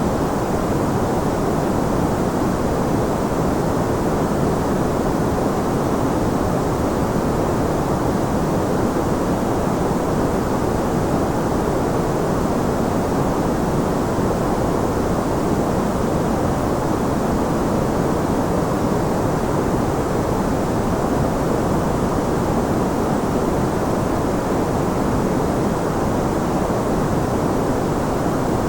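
Steady white noise for sleep: an even, unchanging rushing with most of its weight low and little high hiss, so it sounds soft and muffled rather than sharp.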